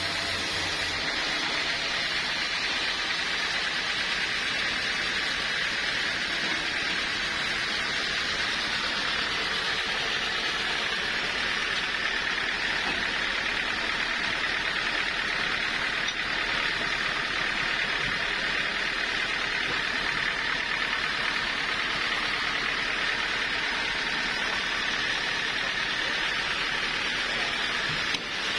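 Sawmill saw running steadily: an even, continuous noise with a faint high whine.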